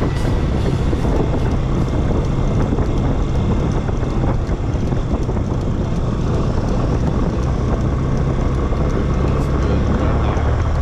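Motorcycle engine running steadily at cruising speed, with wind noise on the action camera's microphone.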